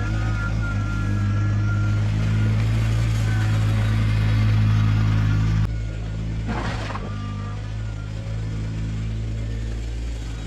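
Kubota BX compact tractor's diesel engine running at a steady speed. It drops suddenly in level a little past halfway, and a brief rush of noise follows about a second later.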